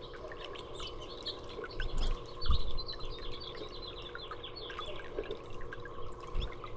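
Small birds chirping in quick short notes, many overlapping, over a faint steady hum, with two low thumps about two seconds in that are the loudest sounds.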